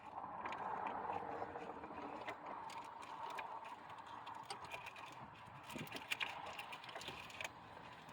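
Hands working plastic wiring-harness connectors in a car's engine bay: scattered clicks and rattles, with a cluster of sharper clicks about six seconds in, over a faint steady background hiss.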